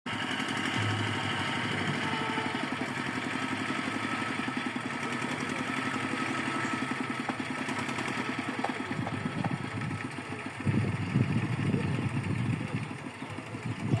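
Small ferry boat's engine running steadily, then louder and rougher for a couple of seconds near the end.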